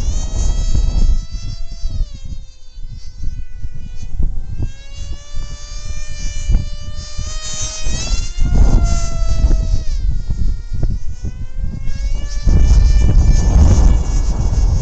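Electric motor and propeller of a Ritewing Lightning 36 flying wing whining in flight, the pitch dropping, climbing again and dropping as it flies. Wind rumbles on the microphone at the start and again near the end.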